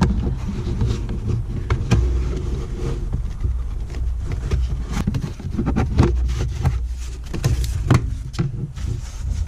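Irregular clicks and knocks of a tool and plastic interior trim being worked on to remove a small nut behind a truck's kick plate, over a steady low rumble.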